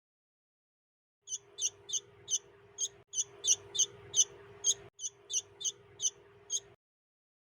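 Bulbul chick giving short, high, sharp chirps about three times a second, typical begging calls, over a low steady hum. The sound starts just over a second in, drops out briefly twice and stops near the end.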